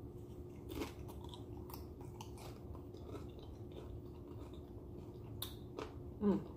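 Close-miked chewing of a mouthful of turkey taco, with scattered sharp crunches and wet mouth clicks.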